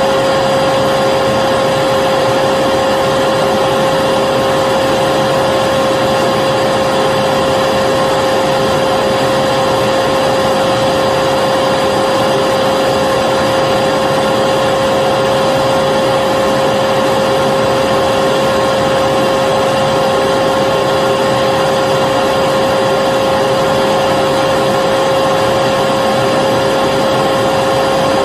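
Vacuum cleaner motor running continuously at a constant speed, a dense airflow noise with a steady high whine.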